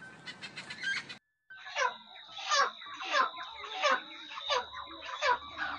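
Brown hens squawking: a string of loud calls, each sliding down in pitch, coming a little faster than one a second, with a thin steady high tone behind them. A short stretch of quick ticking noise comes before them, in about the first second.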